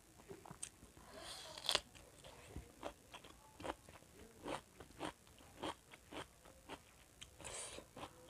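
Close-miked biting and chewing of raw cucumber. There is a loud crunch about a second and a half in, then crisp chewing clicks about twice a second, with another crunchy burst near the end.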